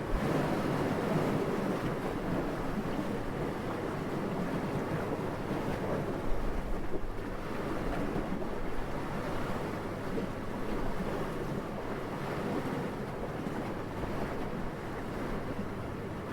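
Steady rushing wind, swelling and easing in slow surges, with a brief louder gust about six seconds in.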